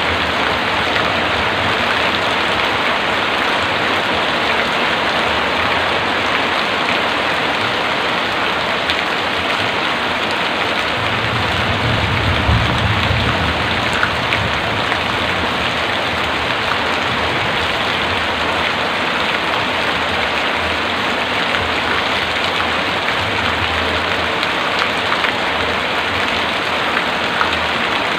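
Heavy rain falling steadily, with a brief low rumble about twelve seconds in.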